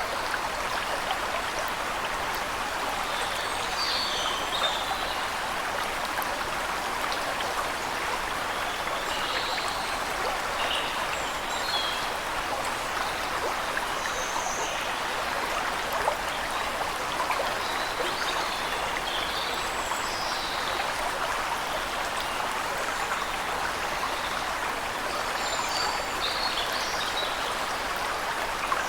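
Waterfall rushing steadily, with short high bird chirps scattered over it at irregular intervals.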